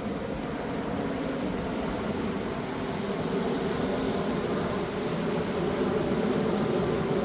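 A steady engine drone, slowly growing louder.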